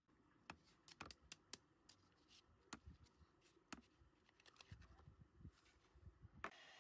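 Faint, irregular clicks and taps over a low rumble, stopping abruptly near the end.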